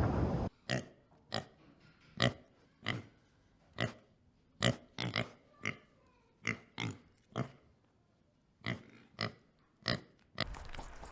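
An animal giving about fifteen short grunts at uneven intervals, with near silence between them.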